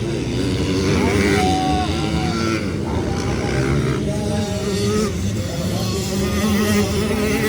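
Several motocross bikes racing, their engines overlapping and revving up and down.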